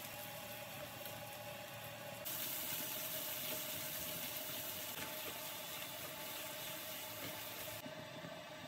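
Onion and tomato masala sizzling in a frying pan as it is stirred, then red lentil dal simmering, over a steady hum; the sound changes abruptly twice.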